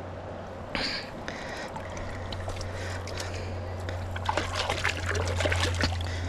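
Shallow water splashing and trickling, with a brief splash about a second in and small splashes coming thicker and faster over the last two seconds.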